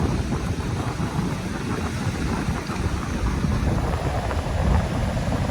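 Wind buffeting the microphone with an uneven low rumble, over the wash of surf.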